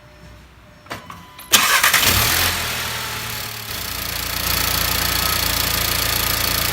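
A Mk7 Volkswagen Golf's turbocharged four-cylinder engine started up after an oil change. A click comes about a second in, then at about a second and a half the engine catches with a brief flare and settles into a steady idle.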